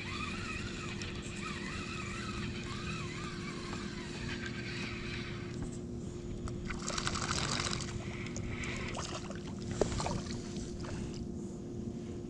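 Water sloshing around a kayak while a hooked fish is brought in, with a wavering whir in the first few seconds and a splash about seven seconds in.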